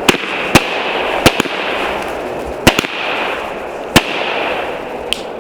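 Fireworks going off: about six sharp, irregular bangs over a continuous crackle.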